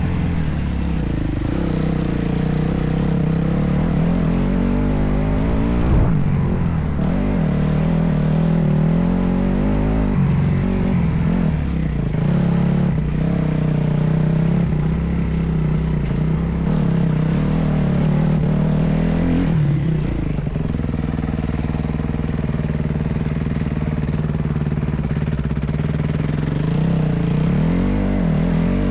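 Motocross bike engine being ridden hard, its pitch rising and falling repeatedly as the throttle is opened and closed.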